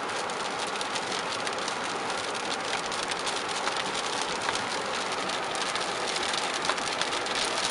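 Heavy rain pelting a car's roof and windshield, heard from inside the cabin while driving: a dense patter of drop hits over a steady hiss.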